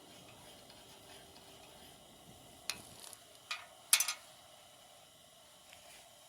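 Campfire crackling softly, with a few sharp clinks; the loudest comes about four seconds in.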